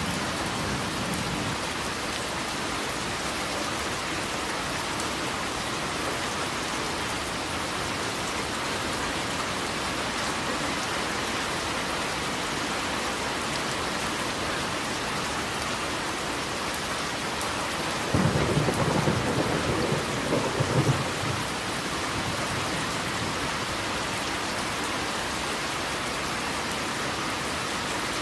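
Steady rain pouring down in an even hiss. About two-thirds of the way through, a roll of thunder rumbles low for about three seconds, louder than the rain.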